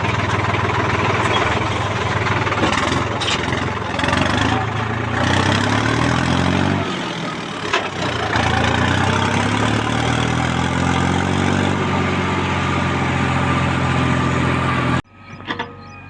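Heavy diesel engine of loading machinery running loud and close. Its pitch sags about a third of the way in and climbs back up over the next few seconds as it works under load, with one sharp knock in the middle. It cuts off abruptly near the end.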